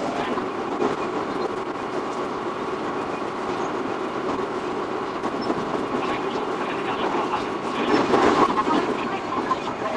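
Electric commuter train running on the rails: a steady rumble and rattle of wheels heard from on board, louder for a moment about eight seconds in.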